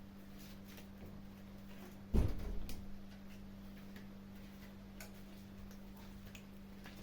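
Kittens eating, with small scattered clicks and crunches from chewing, over a steady low hum. One loud dull thump a little over two seconds in.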